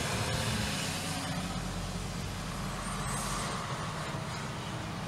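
Steady engine noise from vehicles running close by, with a low hum underneath.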